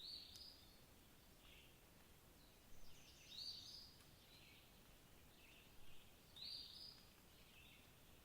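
A bird singing faintly, repeating the same short, high phrase about every three seconds over a quiet background hiss.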